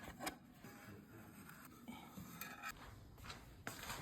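Faint kitchen handling sounds: a few light clicks and knocks of utensils and dishes, with some scraping, as dough is being shaped.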